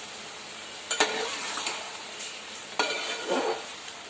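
Chicken stew masala sizzling as it fries on high heat in a metal pot, with a steady hiss throughout. A metal spatula stirs it, scraping and knocking against the pot with sharp strokes about a second in and again near three seconds.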